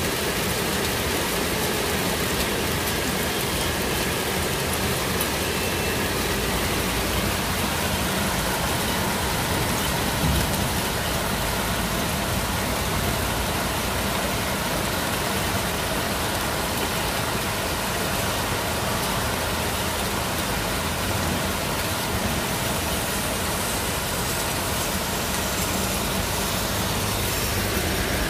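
Heavy rain pouring down in a steady, even hiss, with cars driving along a wet street below.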